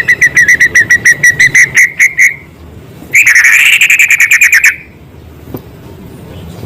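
White-rumped shama (murai batu) singing: a fast run of repeated whistled notes, about eight a second, then after a short pause a loud rapid trill lasting about a second and a half.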